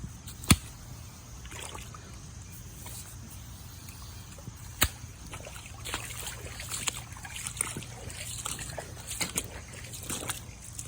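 Creek water trickling, with two sharp knocks, one about half a second in and a louder one just before five seconds, and scattered light crackles and rustles through the second half.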